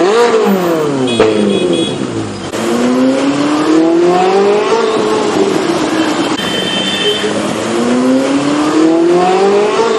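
Ferrari 458 Italia's 4.5-litre V8 with an aftermarket exhaust, being revved loudly. The engine note falls away from a peak at the start, then climbs twice, each time for about two seconds, dropping back in between.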